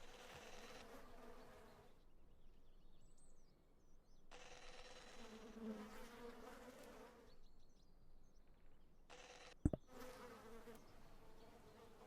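Faint buzzing hum that comes and goes in spells of one to three seconds, with a single sharp click about ten seconds in.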